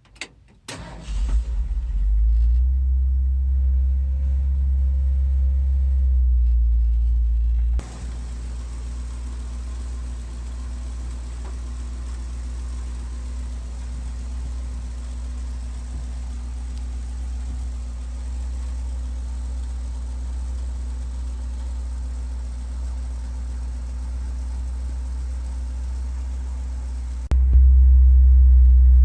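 Ford 429 V8 engine in a 1961 F100 pickup starts about a second in after a couple of clicks, then runs steadily at idle with a deep rumble. The level drops abruptly just before 8 s and jumps up again near the end.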